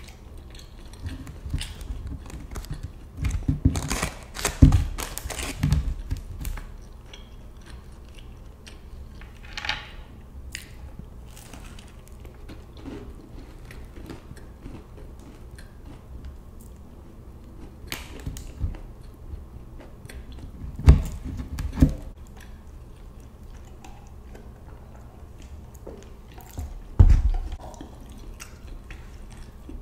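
A person biting and chewing crisp fried chicken close to the microphone, with loud crunchy bites about four to six seconds in, again around 21 seconds and near the end, and quieter chewing in between.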